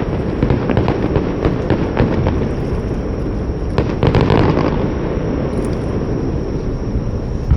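Fireworks display: a steady rumble of booming shells with rapid crackling over it, and a denser burst of crackles about four seconds in.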